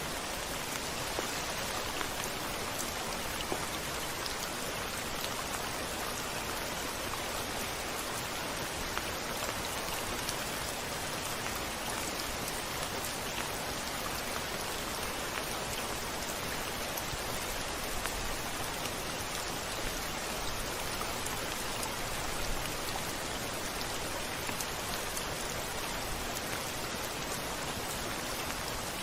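Steady rain with many small drops ticking against a window pane.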